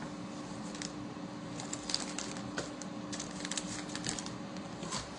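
Light, scattered clicks and crinkles of plastic food bags holding raw chicken pieces being handled.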